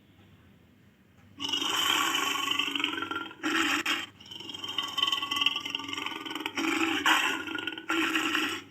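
Barbary lion roaring: after a short quiet, a run of loud, rough roars begins about a second and a half in, with brief breaks between them.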